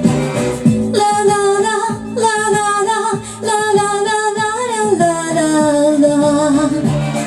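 A woman's voice singing a wordless melody in long held notes that slide between pitches, entering about a second in, over a pop backing track with a steady beat.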